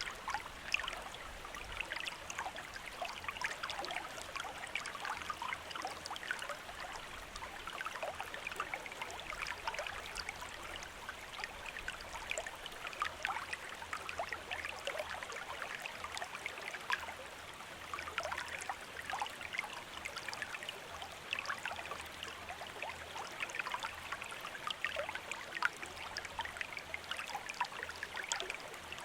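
A shallow stream or river running over stones: a steady babble of small splashes and trickles.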